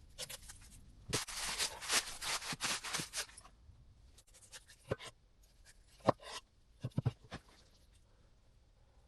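Dry rustling and scraping for about two seconds, then a few separate sharp clicks and knocks.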